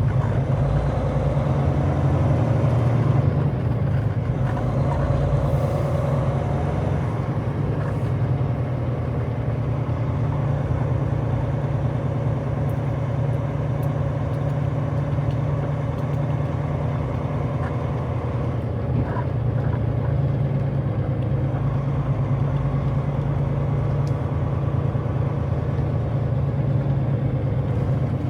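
Semi truck's diesel engine running at low speed, a steady low drone.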